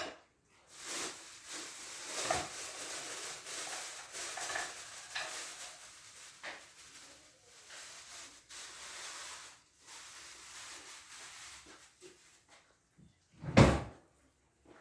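Household handling noises: rustling and clattering with scattered knocks, and one loud thump near the end.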